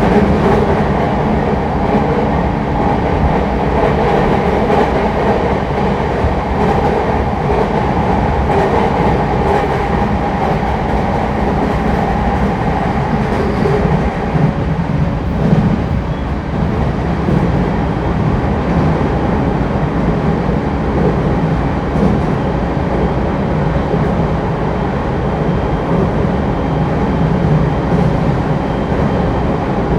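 Running sound inside a refurbished JR East E231-1000 series commuter train travelling at speed between stations: a steady rumble of wheels on rail with faint clicks, and a hum that fades about halfway through.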